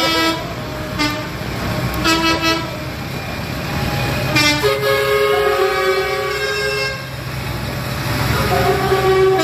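Horns on passing parade tractors tooting over the steady rumble of engines: a few short toots, then a longer two-tone blast lasting a couple of seconds in the middle, and another toot near the end.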